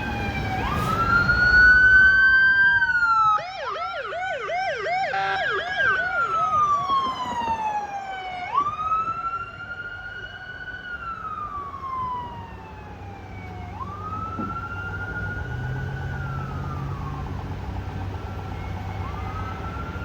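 Police siren wailing in slow rising and falling sweeps of a few seconds each, with a second siren joining in a rapid yelp from about three and a half to seven seconds in. A low vehicle rumble sits under the later sweeps.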